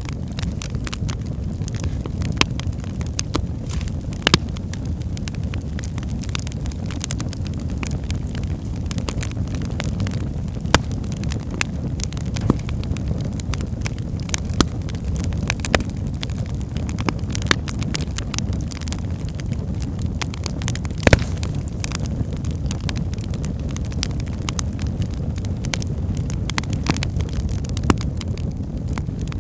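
Wood fire burning in a fireplace: a steady low rumble of the flames with frequent irregular crackles and pops from the logs, a few of them sharper and louder.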